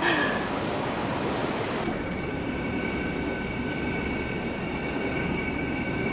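Steady rushing rumble of a canal lock chamber filling as the boat is raised, with a thin high whine joining about two seconds in.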